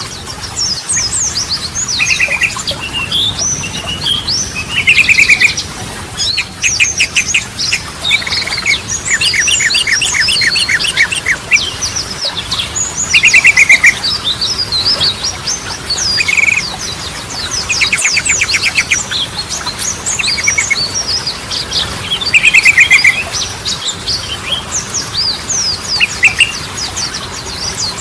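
Yellow-vented bulbuls (trucukan) singing in lively, overlapping chatter. Short rattling trills recur every few seconds among quick, high sweeping notes.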